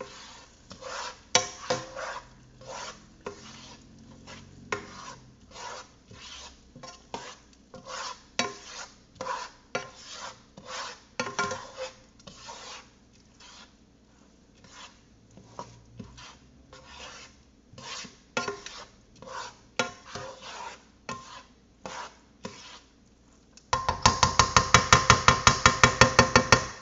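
Risotto being stirred in a pot, the spoon scraping the pan in short strokes about once or twice a second. Near the end, a loud, fast run of regular clicks, about seven a second, lasts about three seconds.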